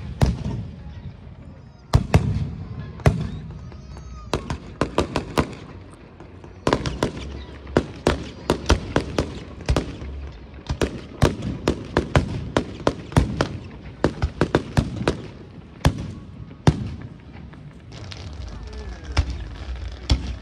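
Aerial firework shells bursting: a few single bangs, then from about seven seconds in a rapid run of bangs several a second, thinning out after about 17 seconds.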